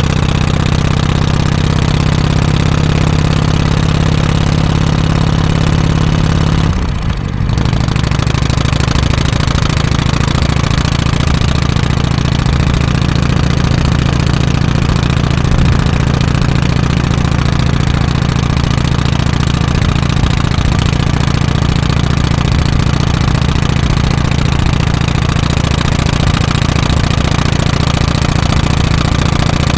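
Harley-Davidson FXSTC Softail Custom's 1340 cc Evolution V-twin running steadily through its exhaust. About seven seconds in there is a brief dip, after which its note settles slightly lower.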